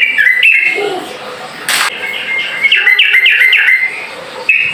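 Yellow-vented bulbul (trucukan) singing its fast 'ropel' song: short bubbling whistled phrases, with a quick run of about five notes in the second half. A brief rustling burst comes about a third of the way in.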